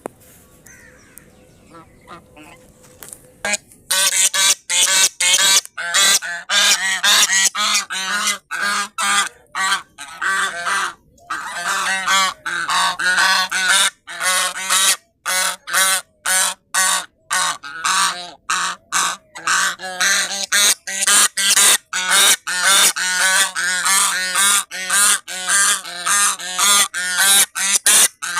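Geese honking in loud, rapid, repeated calls that start about four seconds in and keep going without a break.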